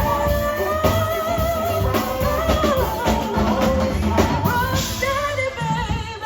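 Live band playing a song: singing over drum kit, bass and guitar. Near the end the drums and bass drop out, leaving a held sung note.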